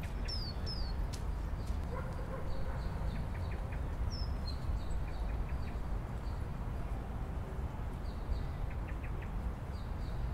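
Outdoor park ambience: small birds chirping in short, repeated high calls over a steady low rumble.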